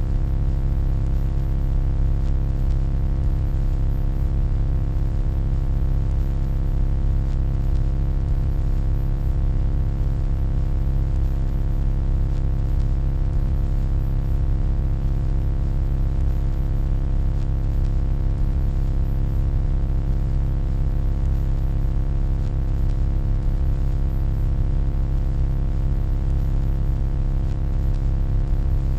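Steady low electronic hum, deep and even, with a stack of fainter steady tones above it and a light hiss on top.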